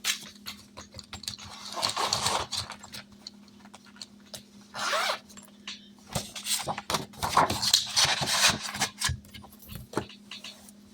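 Binders and their pages being handled and put away: irregular rustling with clicks and knocks, in a few separate bursts.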